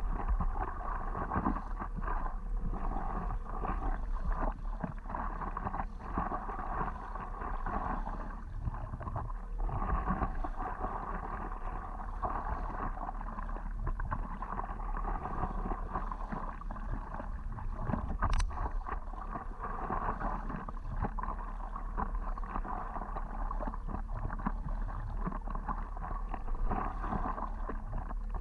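Water sloshing and gurgling around a stand-up paddleboard as it is paddled along, with a sharp click about two-thirds of the way through.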